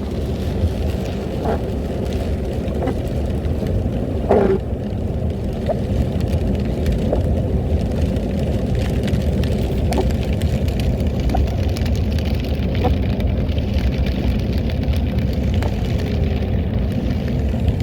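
Steady low rumble of a car driving, with scattered light clicks and knocks.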